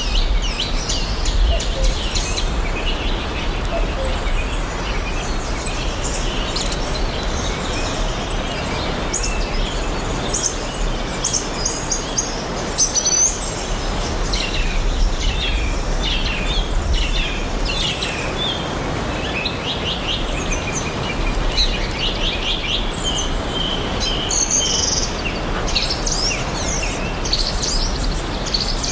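Forest ambience: several birds chirping and singing in short, overlapping calls over a steady background rush with a low rumble. The calls come thickest in the middle stretch and again near the end.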